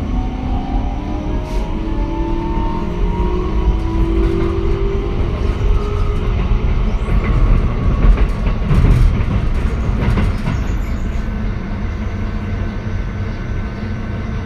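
Keikyu 1000-series electric train running: its traction motors whine in several tones that rise in pitch over the first few seconds as it picks up speed, over a steady low rumble. A cluster of clicks and knocks comes from the wheels on the track about halfway through.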